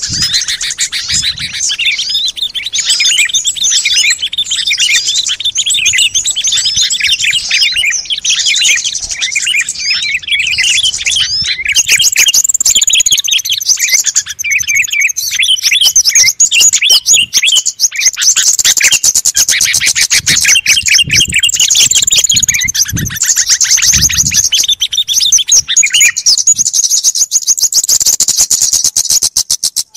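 Bird-luring recording of many small songbirds calling at once: a dense, loud chorus of rapid high chirps. About twelve seconds in, it turns to fast trills of very rapidly repeated notes.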